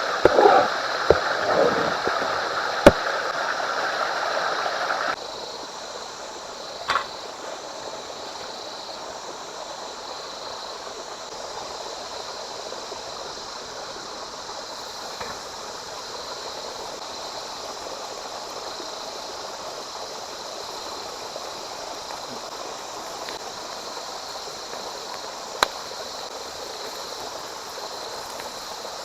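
Steady rush of flowing water, like a stream. It is louder with a few crackly clicks for the first five seconds, then drops suddenly to a quieter steady rush, with a couple of single sharp clicks later.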